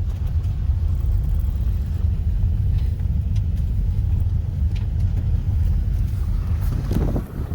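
Car driving, heard as a steady low road rumble with a few faint clicks, dropping away sharply near the end.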